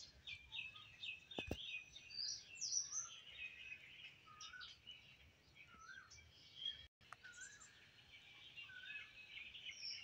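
Several small birds chirping, a busy run of short high calls, trills and slurred notes with a faint background hiss. A single sharp click sounds about a second and a half in.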